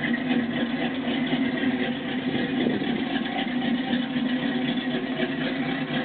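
1988 Chevrolet Monte Carlo SS V8 with an aftermarket cam idling steadily through Flowmaster exhaust mufflers while warming up.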